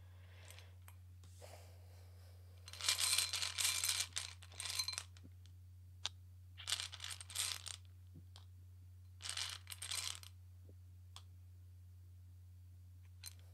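Tarot cards being shuffled and handled: three short bursts of papery riffling, a few seconds apart, with light clicks between them.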